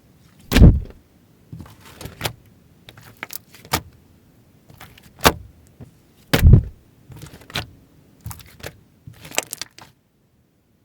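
Slime being squeezed and pressed by hand: scattered sharp clicks and crackles, with two much louder deep pops, one about half a second in and one about six and a half seconds in. The sound cuts off abruptly near the end.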